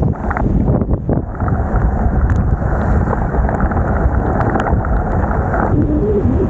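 Wind buffeting the microphone of a camera on a moving bicycle in heavy rain: a loud, steady rumbling noise that flutters quickly in level.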